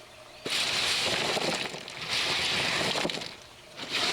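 Loose lava rock being poured into an aquaponics grow bed, a dense clattering rattle of many small stones. It starts about half a second in, breaks off briefly about three and a half seconds in, then starts again.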